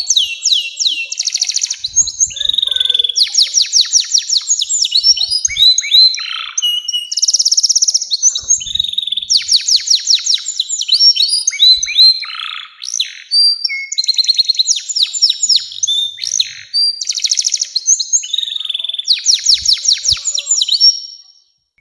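Domestic canary singing a long continuous song of rapid trills, rolling phrases and chirps, changing from one fast repeated note to the next, then stopping abruptly near the end.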